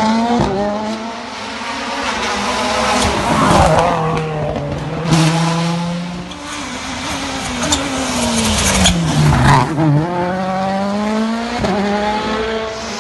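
A World Rally Car's turbocharged four-cylinder engine revs hard flat out, with the pitch climbing and dropping at gear changes. About halfway through it falls away through a long slowdown, then climbs again under acceleration. A few sharp cracks are heard.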